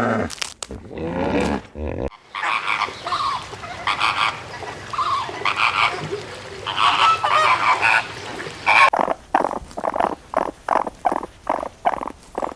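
Farmyard waterfowl calling: after a brief sliding call at the start, a flock gives many short honking calls. From about nine seconds in, the calls come in a fast, even run, two or three a second.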